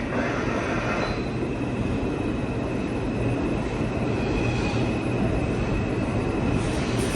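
New York City subway train running at the platform: a steady rumble with a thin, steady high-pitched squeal or whine over it.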